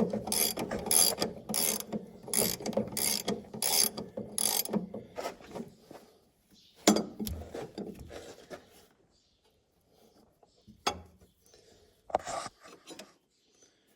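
Ratcheting gear wrench worked back and forth to loosen a bolt, each back-swing giving a quick burst of ratchet clicks, about two strokes a second for the first five seconds. After that come a few separate metallic clanks.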